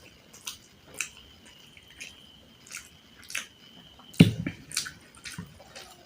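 Close-miked wet chewing and mouth smacks: sharp, sticky clicks every half second or so, with one louder, deeper smack about four seconds in.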